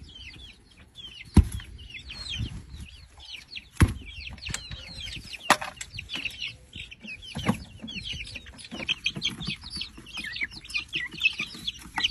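A flock of chickens clucking and peeping in many short, quick chirps. A few sharp knocks or taps cut through, the loudest about a second and a half in.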